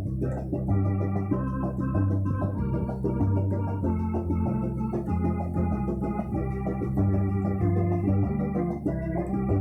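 Yamaha Electone BK-5C electronic home organ playing sustained chords over a bass line that changes note about once a second, with a melody on top.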